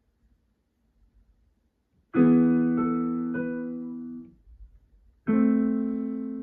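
Donner DDP-60 digital piano playing two chords, each struck cleanly and fading slowly. The first comes about two seconds in, with two more notes added over it. The second is struck about three seconds later and keeps ringing.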